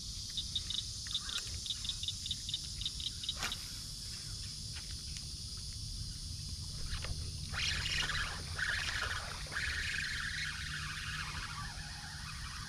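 Outdoor lakeside sound of birds calling: a run of quick, even clicking notes in the first few seconds, then a louder, rougher call a little past the middle. Underneath are a steady high insect hiss and a low wind rumble on the microphone.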